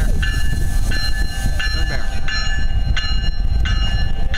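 Bell ringing steadily, about one strike every 0.7 s, over the deep rumble of a slow-moving diesel locomotive, CP GP20-ECO 2246, pulling a train.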